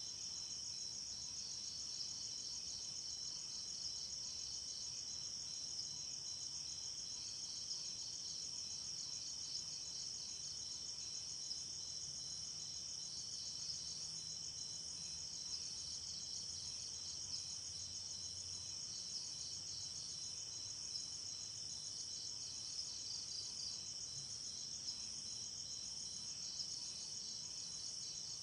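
Night insects, crickets chirping in a dense, continuous chorus of fast, high-pitched pulsing trills.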